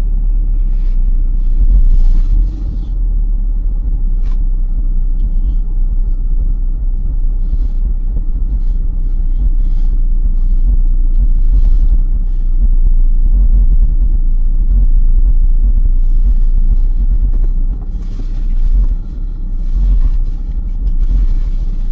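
Car driving on a snowy road: a steady, loud low rumble of road and engine noise.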